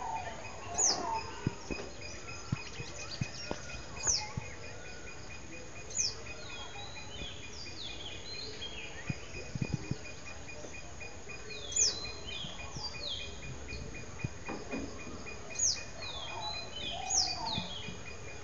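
Small bird calling: about six sharp, high whistles that drop steeply in pitch, several of them followed by a short run of falling stepped notes.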